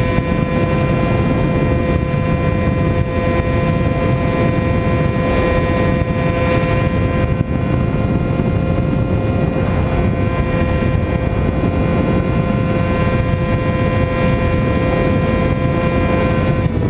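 Radio-control model aircraft's motor and propeller running at a steady throttle, a sustained even-pitched drone over heavy wind rush. The pitch dips slightly near the end as the throttle is eased.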